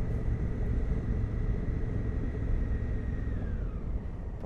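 Adventure motorcycle engine running steadily while riding, heard as a low rumble, with a thin high whine that falls in pitch about three seconds in as the bike slows.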